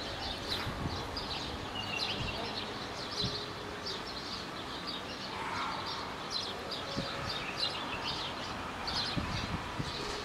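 Small birds chirping in quick, repeated short calls over a steady background noise.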